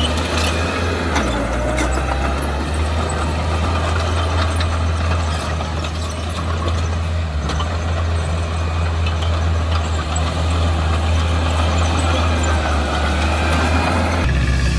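Diesel engine of heavy earthmoving equipment running steadily under load, a continuous low hum with scattered faint clanks; the engine note shifts just before the end.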